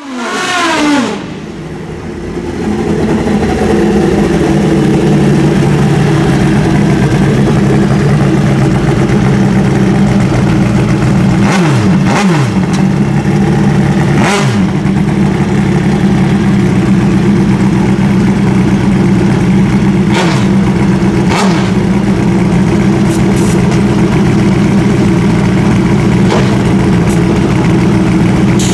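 A loud engine running steadily at constant speed, after a sudden start with a falling pitch in the first second. A few short swoops in pitch come and go partway through.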